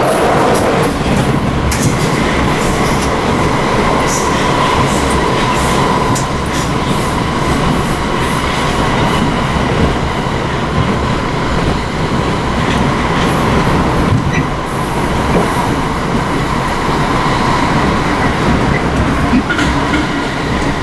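Inside a British Rail Class 455 electric multiple unit running at speed: steady rumble and rattle of the carriage with wheels clicking over rail joints and a steady whine. At the start there is a rush as another train passes close alongside.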